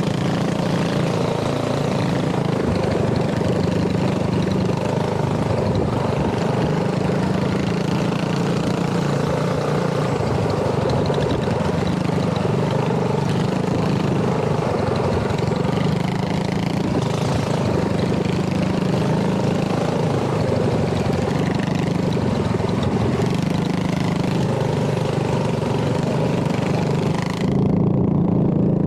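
Small mini bike engines running at idle, their pitch wavering a little. Near the end the sound changes suddenly and loses its hiss.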